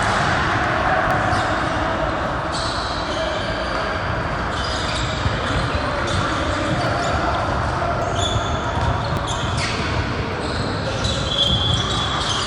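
Basketball game in an echoing gym: a ball bouncing on the court and shoes squeaking in short high chirps, over indistinct voices.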